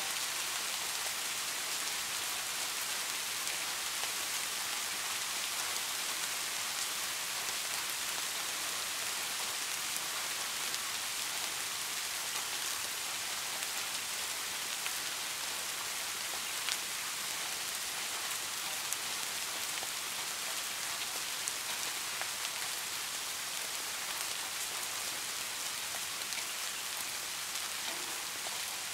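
Steady rain falling: an even hiss, strongest in the high range, with occasional sharper drop ticks scattered through it.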